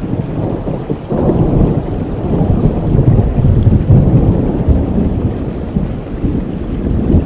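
Steady rain with a long roll of thunder that swells about a second in, peaks midway and slowly eases off.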